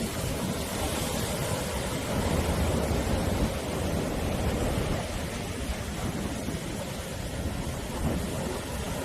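Ocean surf: a continuous rush of waves breaking on the shore with a deep rumble underneath, swelling a little louder about two seconds in and easing after.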